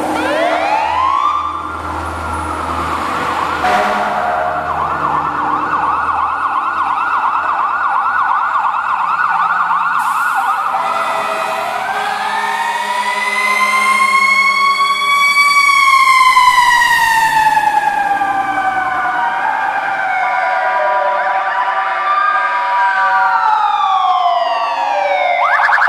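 Fire engine sirens wailing, several overlapping, their pitch slowly rising and falling, with a rapid warble in the first half. A low rumble sits underneath for the first few seconds.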